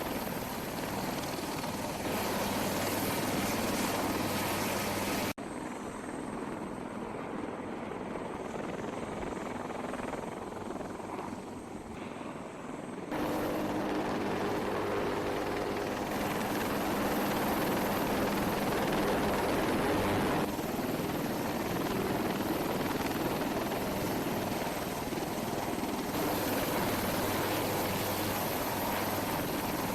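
AH-1Z Viper attack helicopter's rotor and turbine noise, steady, in several cut-together stretches that change abruptly about five and thirteen seconds in.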